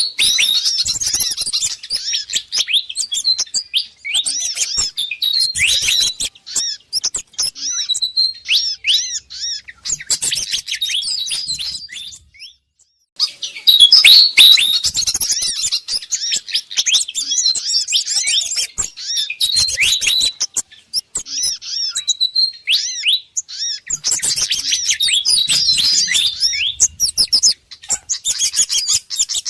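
Bird-lure recording of a busy flurry of high, rapid chirps and sweeping whistled notes from small birds, built around pied fantail calls mixed with sogon and kemade calls. The chatter breaks off for about a second just before the middle, then comes back at its loudest.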